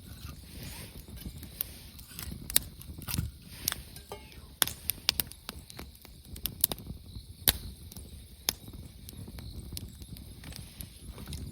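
Wood campfire crackling, with irregular sharp pops over a low rushing of the flames; the loudest pop comes about seven and a half seconds in.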